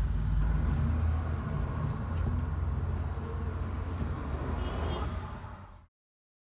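Steady low rumble that cuts off abruptly to silence about six seconds in.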